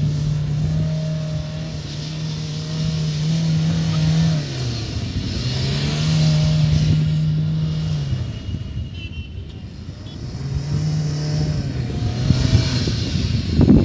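Tata hatchback's engine held at high revs as it spins in tight circles on loose dirt. The revs sag and climb back three times, over the hiss of spinning tyres throwing dirt.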